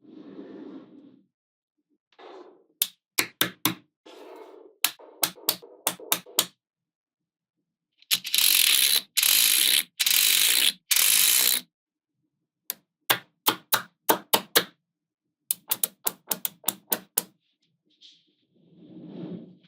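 Small magnetic balls snapping together in quick runs of sharp clicks, with softer rubbing as they are handled. About 8 seconds in there are four loud, gritty rattles, each under a second long.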